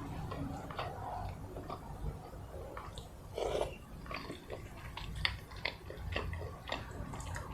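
Close-miked chewing and wet mouth clicks of someone eating a meal of rice and chicken curry, with a louder brief rustle about halfway through.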